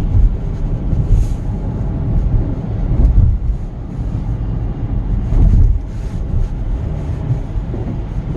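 Steady low rumble of a car being driven, heard from inside the cabin, with louder swells about three seconds in and again about five and a half seconds in.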